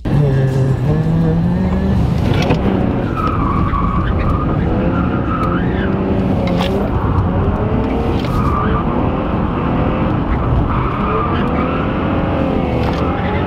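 Car being drifted: its engine revs rise and fall while the tyres squeal in repeated spells as it slides.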